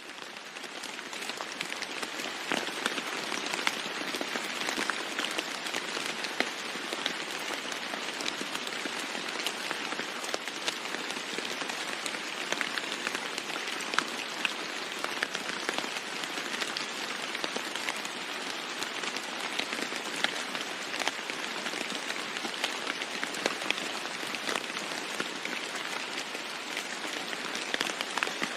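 Steady heavy rain falling on a roof, a dense patter of drops that fades in from silence over the first second.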